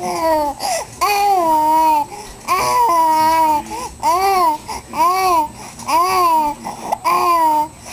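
A young child making silly sing-song vocal sounds: a run of about seven pitched calls, each rising and falling, a couple of them drawn out longer.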